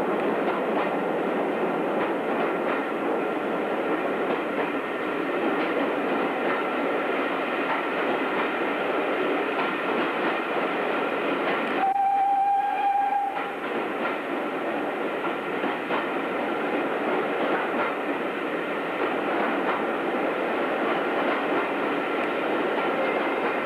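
Train running along the line, heard from on board, with a steady rumble of wheels on the track. About halfway in, a single held whistle note sounds for about a second and a half.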